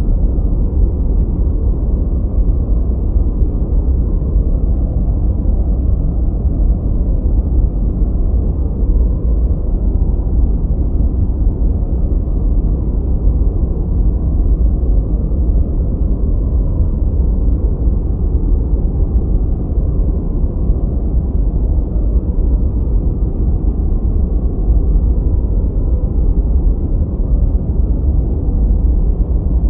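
Steady masking noise from a relaxation noise track: an even, deep rumbling hiss with most of its weight in the bass and almost nothing in the treble, unchanging throughout.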